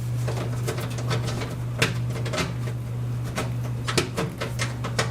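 Desktop PC case being handled: a string of light clicks and knocks from its metal panels and screws, over a steady low hum.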